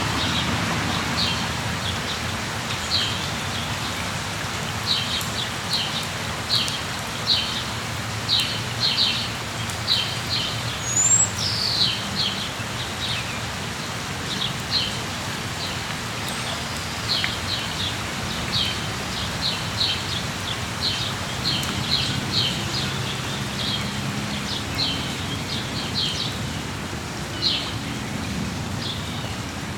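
Steady rain hissing, with a bird repeating short high chirps, often a couple a second, throughout.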